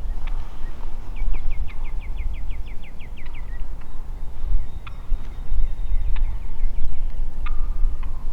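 Turkey calling: a rapid run of about a dozen short, high notes lasting a couple of seconds, followed by a few single sharp clicks, over a steady low rumble.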